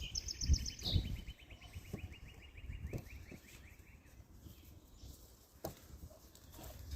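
A songbird's rapid trill of short repeated notes, about eight a second, that stops about four seconds in. A few faint knocks follow near the end.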